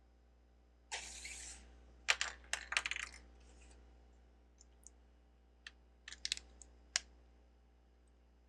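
Plastic Lego bricks being handled: a short rustle of pieces being sifted about a second in, then a quick run of sharp clicks and clacks, and a few scattered single clicks later.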